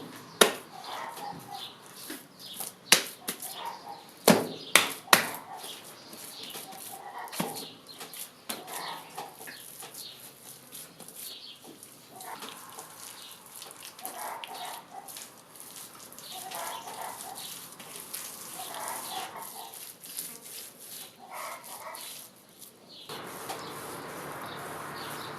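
Wet mud being slapped down and spread by hand over the gravel of a forge hearth: a run of sharp slaps in the first several seconds, then quieter, irregular working of the mud.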